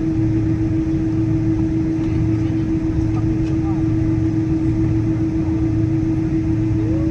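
Steady cabin drone of a Boeing 777-200ER taxiing on its engines at taxi idle, with a constant low hum tone running through it. Faint passenger voices can be heard underneath.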